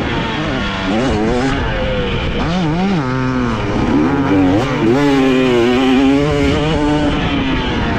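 Dirt bike engine revving up and down over and over, the throttle opening and closing in quick swells as the bike is ridden on a motocross track.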